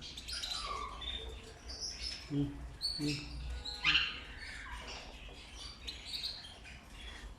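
Amazon parrots chirping and whistling: scattered short high calls, some gliding, with a few brief low sounds about halfway through.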